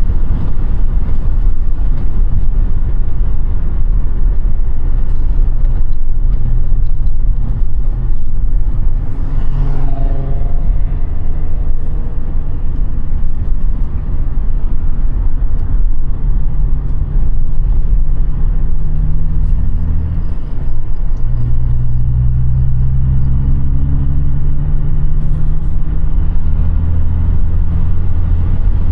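Audi A5 8T driving, with heavy engine and road rumble. About halfway through, the engine note climbs under acceleration, drops briefly, then climbs again.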